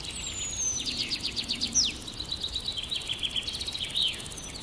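Wild birds calling in open forest: a high whistle sliding down at the start, quick runs of short chirping notes, and a sharp downward-swept note about two seconds in.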